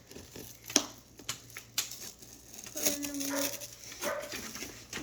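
Paper and cardboard being handled for a craft build: rustling with a few sharp clicks, the loudest a little under a second in, and a short pitched sound about three seconds in.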